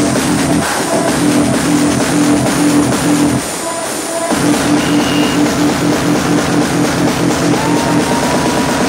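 Loud music with a steady pulsing beat played over a car sound system, with a short break in the bass about three and a half seconds in.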